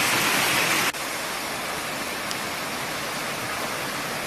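Steady rush of water, louder at first and dropping abruptly to a quieter rush about a second in.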